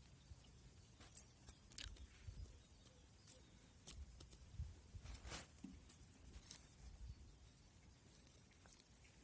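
Near silence, with a low hum and a scattering of brief faint clicks and ticks.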